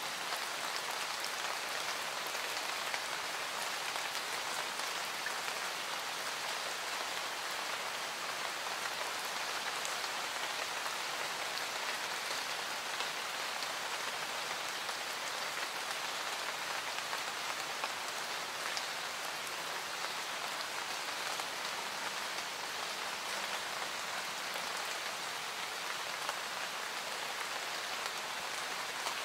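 Steady rain falling, an even hiss with faint scattered drop ticks, from a rain-sounds ambience track added to the audio.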